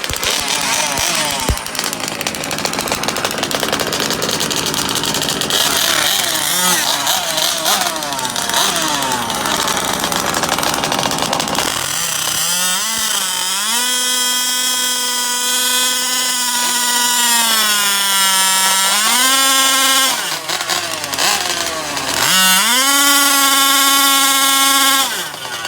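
Large-scale gas two-stroke RC car engines with tuned pipes revving. About halfway through, one engine climbs to a high steady whine at full revs, sags and recovers, drops off, then revs up again and cuts off near the end.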